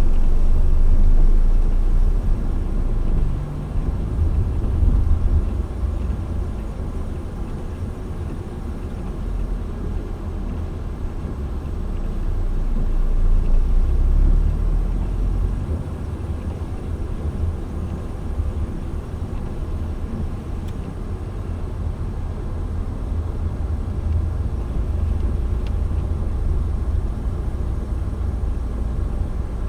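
Steady low rumble of road and engine noise heard from inside a moving car, swelling louder in the first few seconds and again around the middle.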